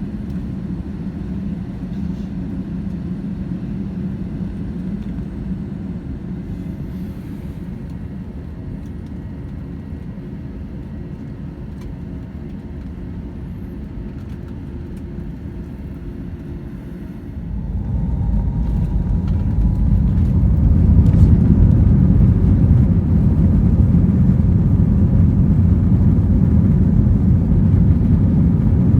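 Airbus A321 jet engines running with a steady low drone, then about seventeen seconds in spooling up quickly, with a short rising whine, into a loud, steady rumble: take-off thrust being set for the take-off roll.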